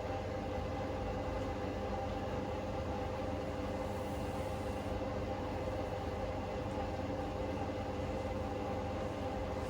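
Hoover Link front-loading washing machine's drum spinning steadily on a spin-only cycle, a constant whine over a low hum. The load is somewhat unbalanced in the drum.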